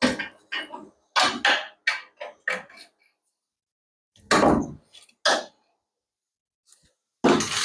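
Hand tools clinking and knocking against steel suspension parts in a string of short, irregular clicks, then two louder knocks. Near the end a continuous mechanical rattle starts.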